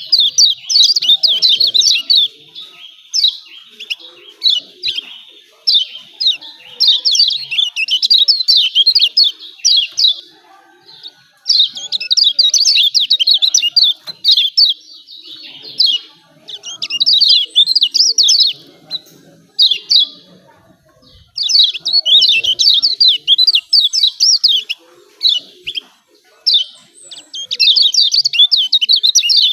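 Kecial kuning, a Lombok white-eye, singing its excited 'ciak ciak' chatter: rapid, high-pitched twittering phrases in bouts of one to three seconds with short pauses between, the song used to provoke other kecial into singing.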